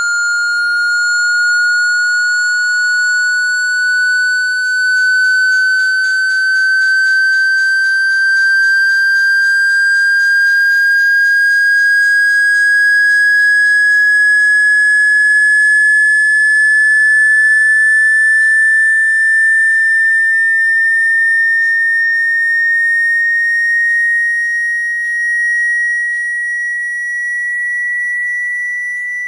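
A single high, clear whistling tone that climbs slowly and steadily in pitch, with faint rapid ticking under it through the middle.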